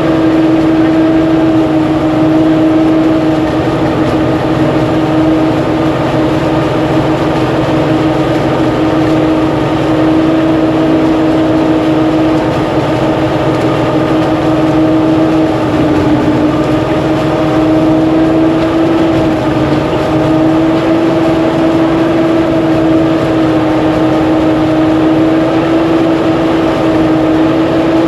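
Engine running steadily at a constant speed, with a loud, unchanging hum.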